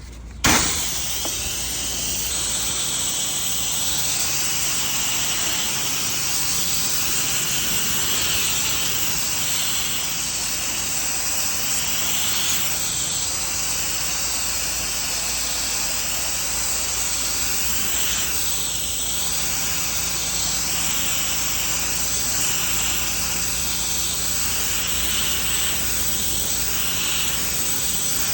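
Pressure washer wand spraying water, starting suddenly about half a second in: a steady, loud hiss that swells and fades as the spray is swept back and forth.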